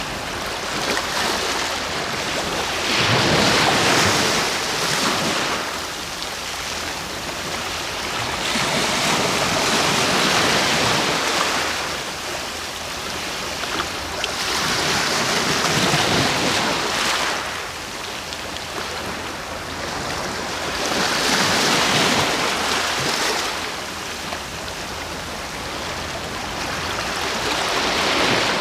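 Sea waves breaking and washing ashore, a steady hiss that swells and eases in slow surges, about one every six seconds.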